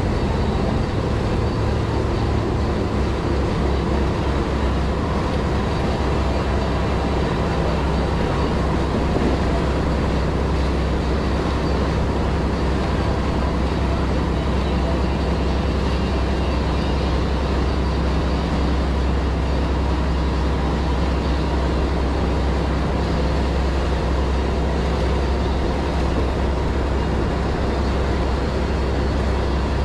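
Boat running underway: its engine drones steadily and low, under constant rushing noise.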